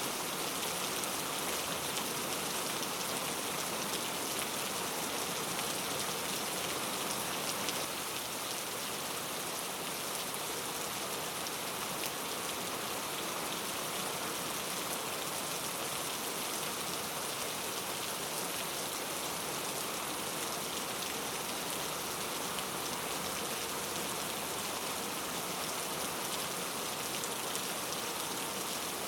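Steady rainforest rain: a dense, even hiss of falling drops that drops slightly in level about eight seconds in.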